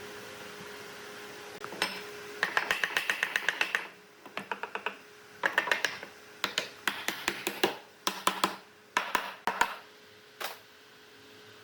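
Rapid sharp tapping or clicking in several bursts, about eight to ten taps a second, with short pauses between the bursts.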